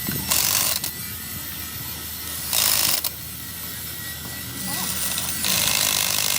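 Workshop tool noise during an engine teardown: a few separate rasping bursts, each about half a second long, over a steady low background.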